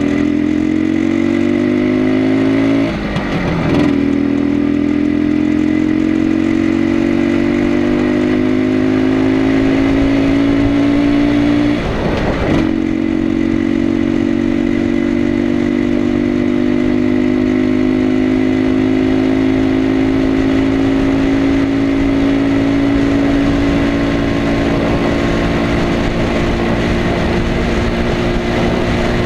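Single-cylinder two-stroke engine of an Izh Planeta Sport 350 motorcycle under way, pulling up through the gears. The engine note climbs, dips briefly at a gear change about three seconds in and again about twelve seconds in, then holds a steady cruising note.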